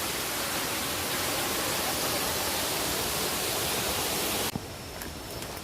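Waterfall's steady rushing noise, which cuts off suddenly about four and a half seconds in, leaving a much quieter background with a few faint ticks.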